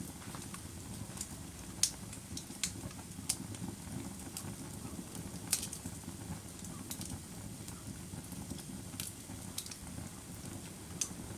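Wood fire burning with a steady low rumble and sharp crackles and pops, roughly one a second.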